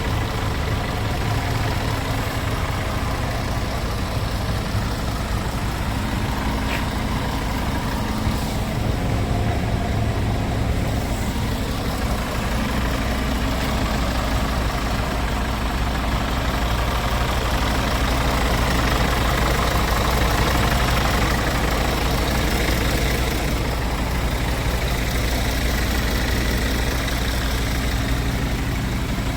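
Scania S410 tractor unit's 13-litre inline-six diesel idling steadily, swelling slightly about two-thirds of the way through.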